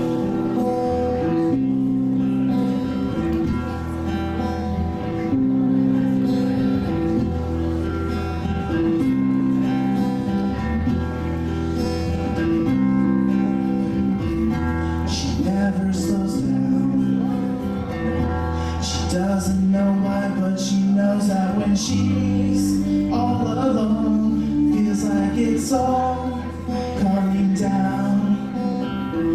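Live acoustic guitar and bass guitar playing a slow song, the bass holding long low notes that change every second or two, with a voice singing over them in the latter part.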